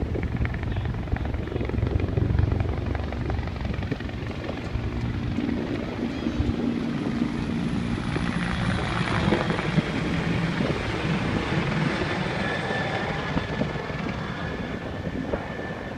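Firefighting aircraft flying past, its engine noise swelling to a peak about halfway through and then easing off.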